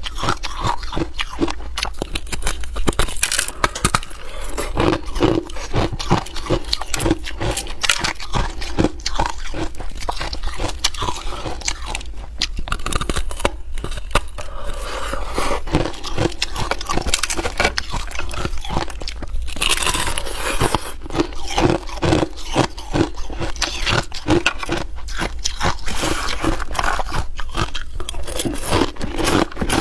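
Ice being bitten and chewed close to the microphone: a rapid, continuous run of sharp crunches and crackles.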